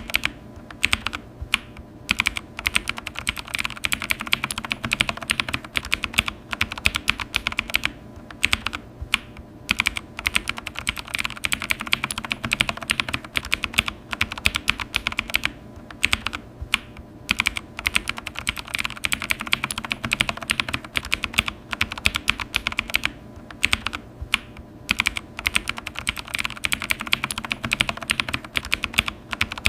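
Typing on a computer keyboard: a quick, dense run of key clicks that breaks off into short pauses every few seconds.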